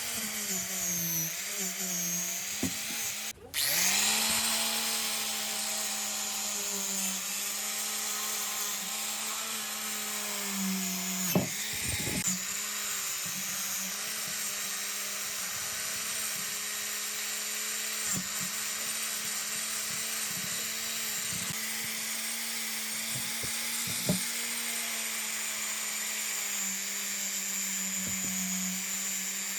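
An electric power tool's motor running steadily at a constant pitch with a hiss above it. It cuts out briefly about three seconds in, then runs on, with a few sharp clicks.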